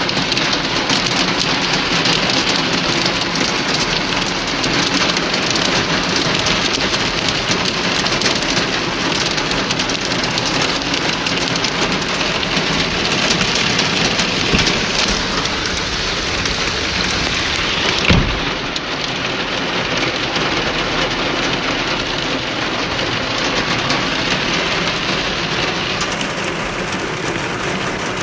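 Heavy rain pouring steadily, a loud, even hiss, with one sudden thump about two thirds of the way through.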